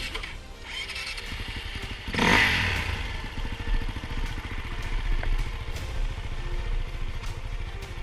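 Dirt bike engine running on the move, with a steady low rumble. A loud rushing surge comes about two seconds in.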